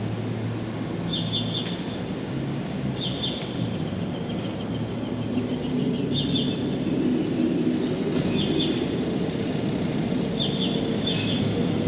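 A songbird repeating short, quick chirp phrases, each starting with a high note and dropping, about every two seconds, over a steady low rumble.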